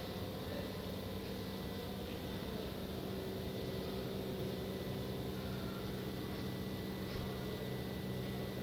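A steady mechanical hum with a faint, thin high whine running through it.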